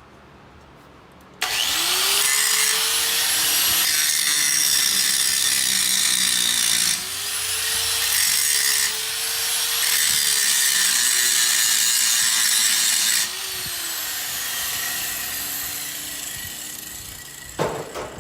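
A power tool grinding or cutting steel. It comes on abruptly, its pitch wavers as the load changes, then it is switched off about 13 seconds in and winds down. A brief clatter follows near the end.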